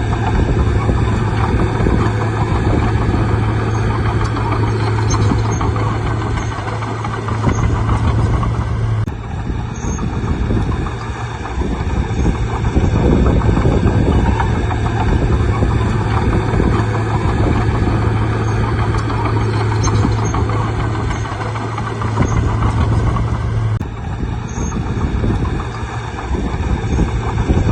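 Bulldozer's diesel engine running steadily at work, with a deep constant hum. The sound changes abruptly twice, about a third of the way in and near the end.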